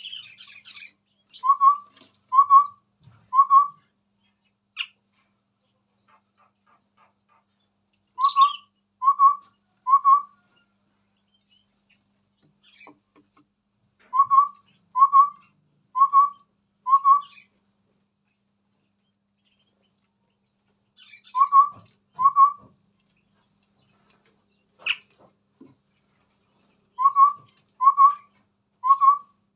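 Chestnut-rumped babbler singing: short whistled notes, each rising slightly, in groups of two to four, the groups repeated about every six seconds. Faint higher chirps and a few sharp clicks come in between.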